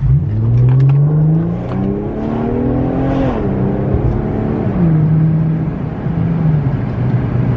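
Infiniti Q50 with its muffler deleted, accelerating hard from inside the cabin. The engine note climbs steadily for about three seconds, drops quickly, then holds steady for a couple of seconds before easing off.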